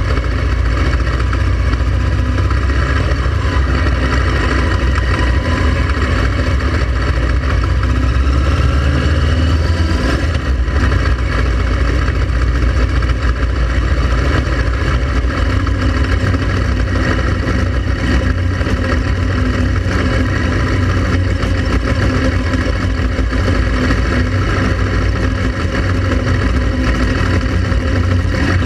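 Honda XL700V Transalp motorcycle on the move, its V-twin engine running steadily under a constant heavy low rumble.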